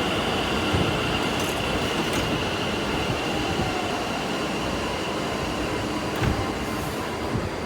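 Taoyuan Airport MRT commuter train pulling out of the station: a steady rumble of the train in motion with a constant high-pitched whine, and a couple of brief low thumps.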